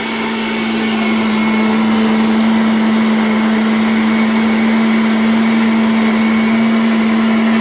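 Electric kitchen blender running steadily, grinding ginger, with a strong even motor hum.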